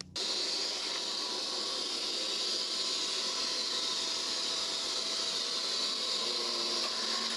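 A steady hiss, like rushing air, water or steam, that starts abruptly at the very beginning and holds an even, fairly high-pitched level.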